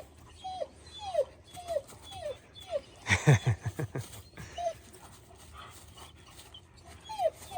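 Dog whining in excitement: a string of short, high whines, each falling in pitch, with a louder, rougher cry about three seconds in.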